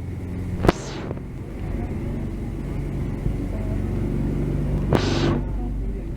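Tour boat's motor running with a steady low drone, along with two short knocks, one near the start and one about five seconds in.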